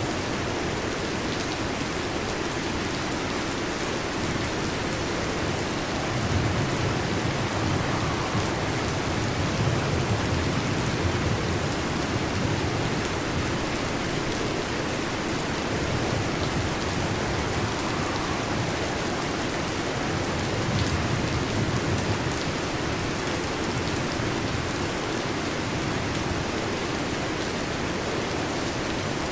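Heavy rain falling steadily on a metal roof, with low thunder rumbling twice: a long roll from about six seconds in and a shorter one around twenty seconds.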